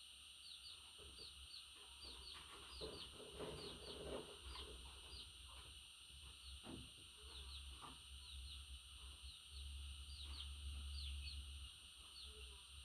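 Budgerigars chirping: short, high, falling notes in quick runs of several a second, over a steady high hiss and a low hum.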